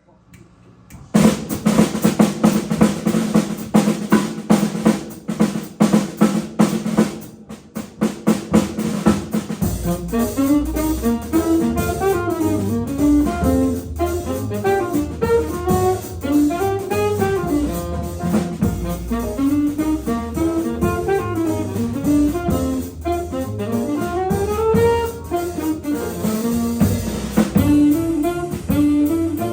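Jazz quintet: a solo drum kit intro with rolls and snare and bass-drum hits for about the first ten seconds, then the band comes in with the fast melody over bass and drums.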